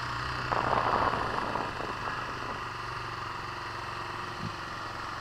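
1983 Honda VF400's V4 engine idling steadily. A rush of noise rises over it about half a second in and fades after about a second.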